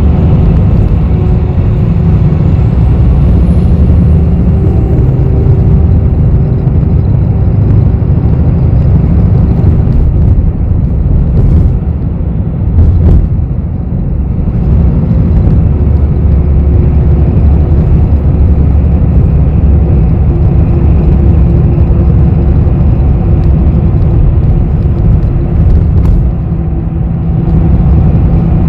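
Cabin noise inside a moving city bus: a steady, loud engine and road rumble, with a few short clicks and rattles.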